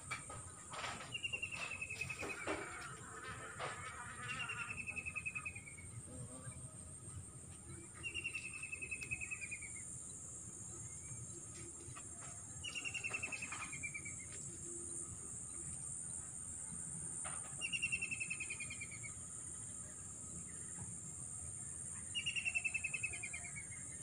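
A bird repeating a short trill that falls in pitch, six times at intervals of four to five seconds, over a steady high-pitched insect drone. A few clicks and knocks in the first few seconds.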